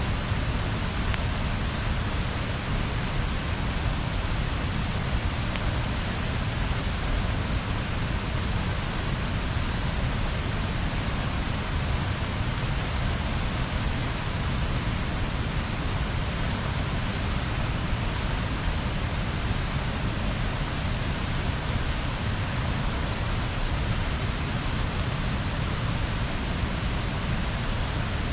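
Bonfire burning: a steady rushing hiss over a deep rumble, with hardly any separate crackles or pops.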